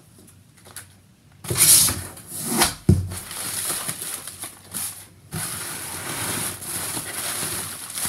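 Cardboard shipping box and packing material being handled and pulled apart, with rustling and scraping that becomes steady in the second half and a single thump about three seconds in.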